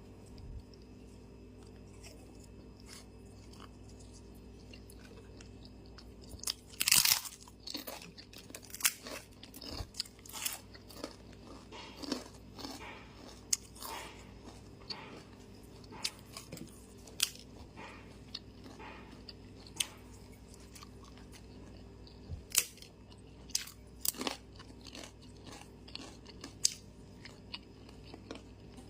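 Close-up chewing and biting during a mukbang meal of tempe oreg. A string of short crunches and mouth clicks starts with a loud bite about seven seconds in, after a quiet start, and carries on until near the end.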